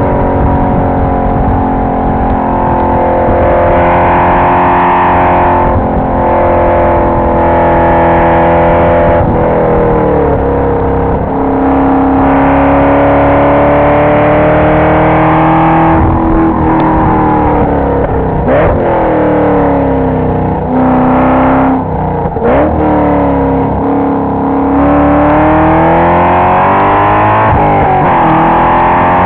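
2005 Cadillac CTS-V's 5.7-litre LS6 V8 heard from inside the cabin, driven hard on track. The engine pitch repeatedly climbs under acceleration and falls away when the throttle is lifted or the car shifts, with the steepest climb near the end.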